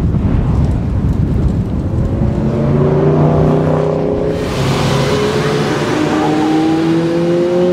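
Car engines running out on the track for the first few seconds. Then, after a cut, the Spyker C8 Aileron's V8 accelerates away and its pitch rises steadily.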